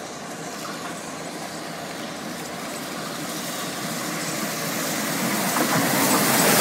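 C32 class 4-6-0 steam locomotive 3237 and diesel 42101 hauling a train through the station towards the listener, their sound growing steadily louder as they approach.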